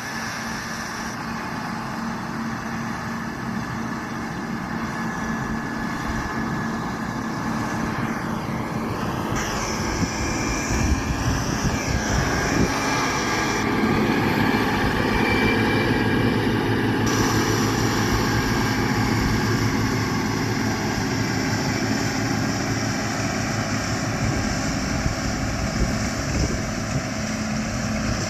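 McCormick MTX 150 tractor engine running under load while driving a Lely RP 265 round baler that is baling haylage, a steady engine-and-machinery drone that grows louder about halfway through and stays loud.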